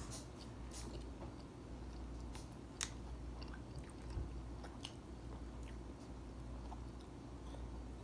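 Faint chewing of fried chicken wings, with scattered short sharp mouth clicks and smacks over a low steady hum.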